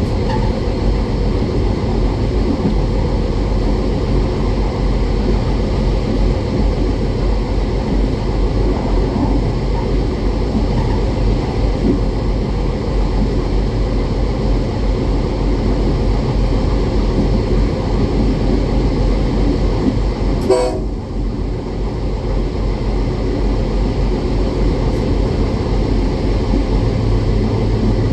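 Diesel train running steadily along the track at speed, with a continuous rumble, rail noise and rushing air. About twenty seconds in there is one short sharp noise, after which the hiss dips briefly.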